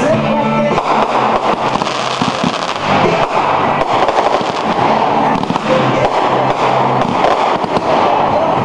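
Fireworks going off in a dense, continuous crackle and popping, with no let-up.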